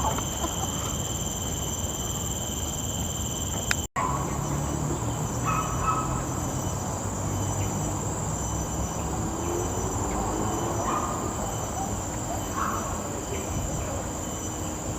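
Steady high-pitched drone of insects, several even tones held without a break, with a few short faint bird chirps. The sound cuts out for an instant about four seconds in.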